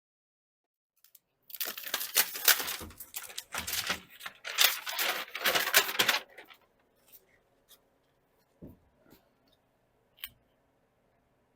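Sound deadener sheet crinkling and tearing as it is handled and pressed into place, lasting about four and a half seconds, followed by a few faint taps and a low thump.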